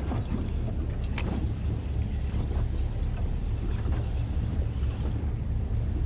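Boat motor idling as a steady low rumble, with wind buffeting the microphone and a few faint ticks.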